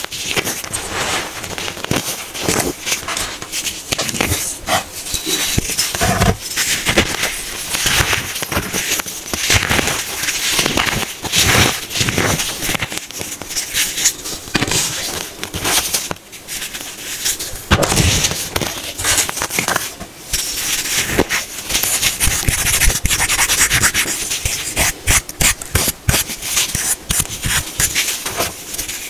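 Compacted baking soda being crushed and squeezed by hand: a dense, irregular crunching and crackling with many sharp little cracks, broken now and then by brief pauses.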